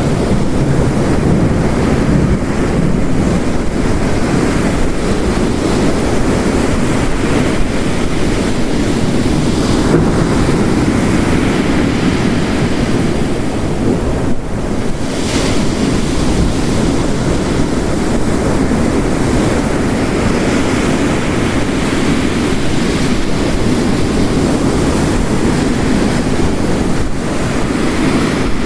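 Layered storm ambience of heavy rain and ocean waves crashing on a coast, a steady dense rush with a brief lull about halfway through.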